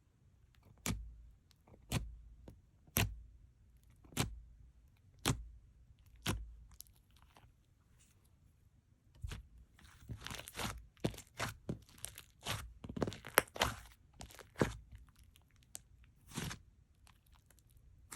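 Slime with clay mixed in being squeezed and poked by hand, making sharp pops about once a second, then a denser run of crackling pops partway through.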